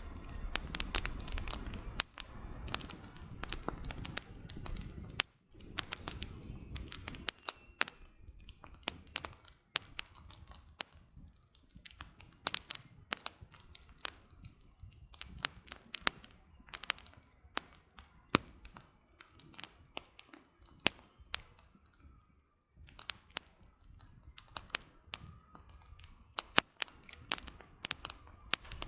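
Wood campfire crackling, with irregular sharp pops and snaps of burning logs. A low rumble sits under the crackling for the first several seconds, then drops away.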